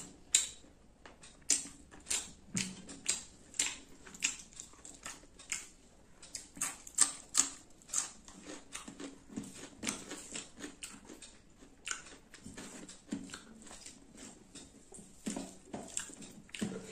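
Close-up chewing and lip-smacking of a person eating mouthfuls of rice and chicken curry, an irregular run of short wet smacks and clicks, a few a second.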